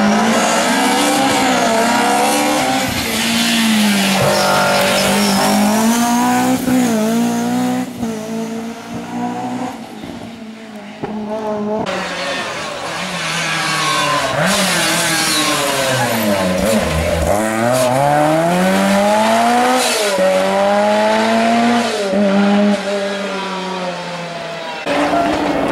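Rally car engines at full throttle, revving hard and dropping back again and again through gear changes and lifts. The sound changes suddenly about halfway through and again near the end.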